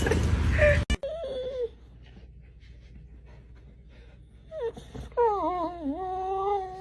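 An animal crying out: a short falling whine just after a cut, then a quiet spell, and from about five seconds in one long, wavering cry.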